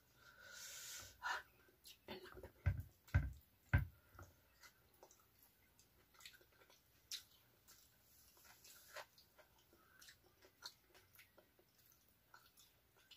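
Close-up eating sounds: a person chewing rice and raw vegetables with sambal, with small wet mouth clicks throughout. A breathy hiss comes just after the start, and a few dull knocks about three seconds in.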